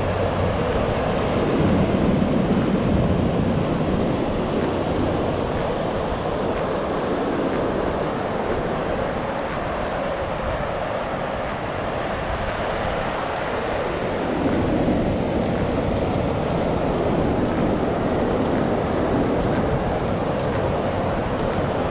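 Ocean surf washing onto a sandy beach: a steady rush of waves, swelling as waves break about two seconds in and again around fifteen seconds.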